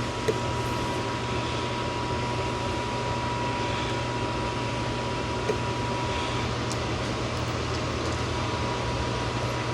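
A machine running steadily: a constant whirring hiss with a low hum and a thin steady tone, with a light tick about a third of a second in and another about five and a half seconds in.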